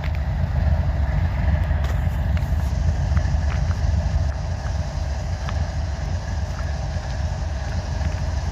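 Steady low rumble of an idling diesel engine, with a few faint ticks.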